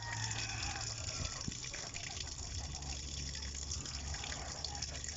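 Water running steadily at a washing machine, with a low steady hum underneath.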